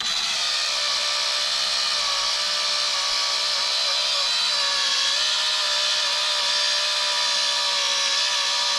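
Cordless polisher switched on and running steadily, its green foam pad buffing polishing compound on plastic; the motor's pitch wavers slightly as the pad is moved and pressed.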